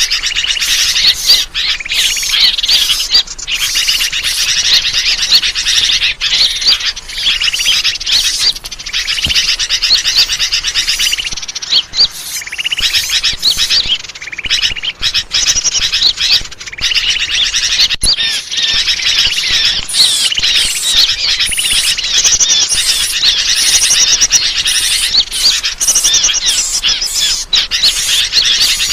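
A dense chorus of small birds chirping and twittering rapidly and without a break, with a few short lulls. It is a bird-lure (suara pikat) recording used to attract wild birds.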